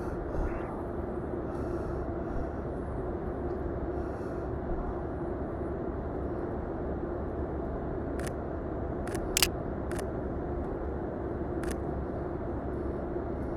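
A camera shutter, the Sony A7III, clicks five times over a few seconds, single shots and a quick pair, against a steady rumble of city street traffic.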